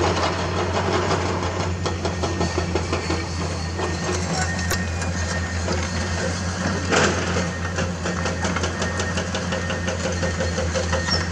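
Komatsu hydraulic excavator's diesel engine running steadily, with frequent short clanks and knocks over it.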